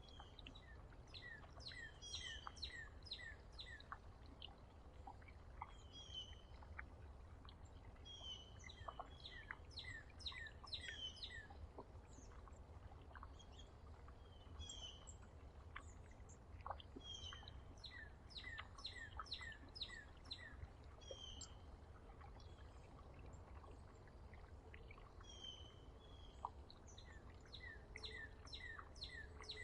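Songbirds singing faintly: phrases of several quick down-slurred whistled notes repeat every few seconds, with higher chips between them, over a low steady rumble.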